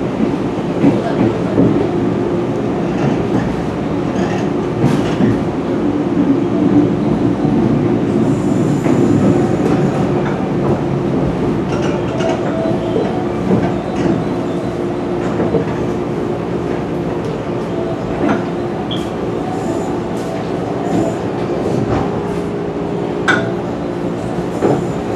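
JR West 103 series electric train running, heard from inside the car: a steady traction-motor hum over running rumble. Sharp wheel clicks over rail joints come every second or two.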